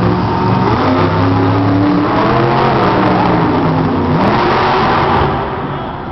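Monster truck engine revving hard, its pitch climbing and falling with the throttle, then easing off near the end.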